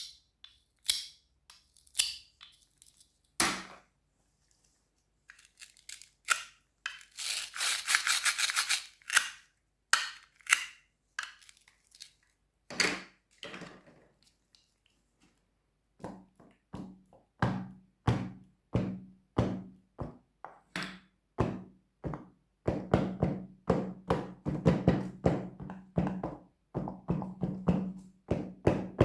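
Crisp crunches and knocks of crunchy fruits and vegetables being cut: scattered sharp cracks at first, a dense crackling run about a quarter of the way in, then a fast run of knocks through the second half.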